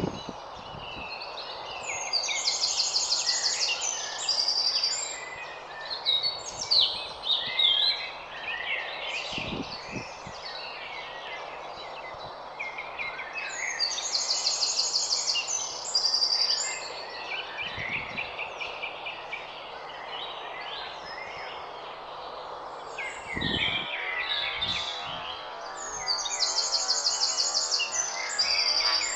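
Garden songbird singing the same fast, high trilled phrase three times, about twelve seconds apart, with other birds chirping in between over a steady background hiss.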